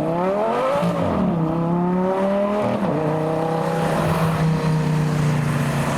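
Lamborghini Gallardo LP560's V10 engine pulling away. The revs climb, fall back at a gear change about a second in and again near three seconds, then hold fairly steady.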